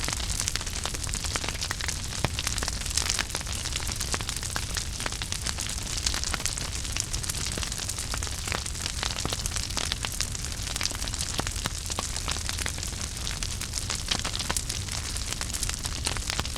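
Wood fire in a fireplace burning steadily, with dense, irregular crackles and pops over a soft hiss and a low rumble.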